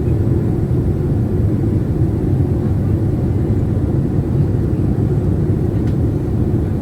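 Steady low rumble inside the cabin of a Boeing 787-8 in flight, from engine and airflow noise.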